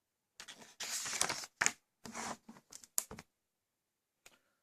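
Rustling and handling noises in a quick run of short bursts, with a sharp click about three seconds in.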